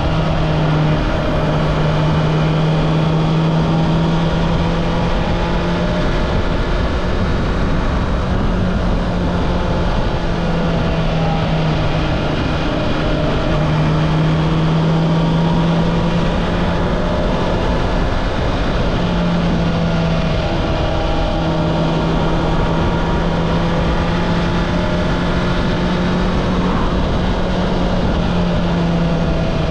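Honda CB650R's inline four-cylinder engine through its stock exhaust, running at fairly steady cruising revs, its pitch dipping and rising slightly a few times, over a steady rush of wind and road noise.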